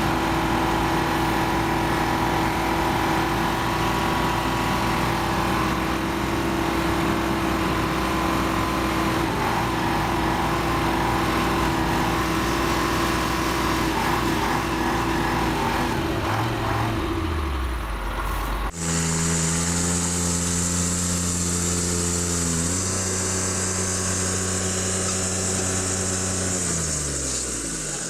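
Vehicle engines running steadily. About two-thirds through, the sound cuts abruptly to a different engine, whose pitch shifts once and then falls near the end as it slows.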